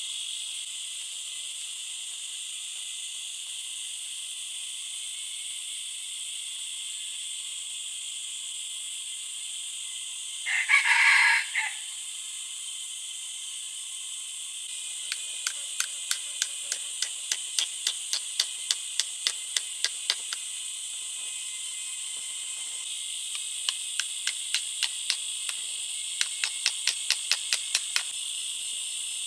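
Steady high insect chorus in the forest. About 11 s in, a short crow-like call lasts about a second. Later come two runs of sharp, regular clicks or taps, about three a second.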